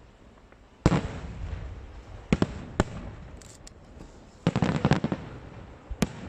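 Aerial fireworks shells bursting: a loud bang about a second in that rumbles away, two sharp bangs a little after two seconds, a cluster of rapid crackling bangs around four and a half seconds, and one more sharp bang near the end.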